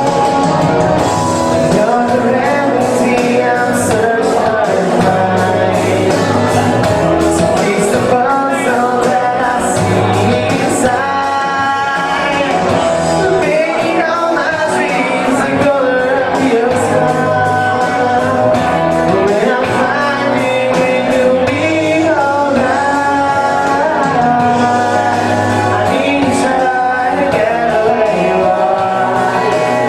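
A song with a singing voice over guitar accompaniment, played continuously at a steady level.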